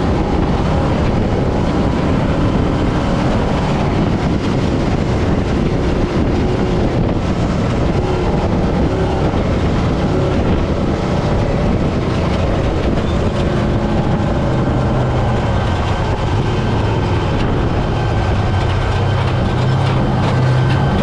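Trophy truck driving off-road: a continuous rumble of engine, drivetrain and rattling chassis over rough ground. About two-thirds of the way in, a steadier low engine note comes through.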